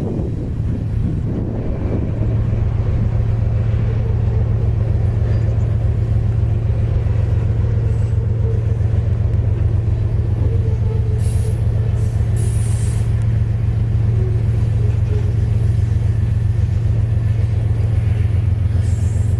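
Diesel locomotive engine running steadily with a deep, even hum, with a few brief high hisses of air near the middle.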